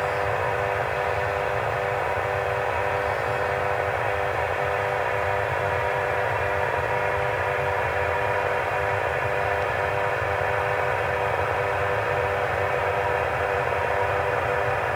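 Aircraft turbine engines running steadily on the ground, a constant whine of several steady tones over a rushing hiss and low rumble.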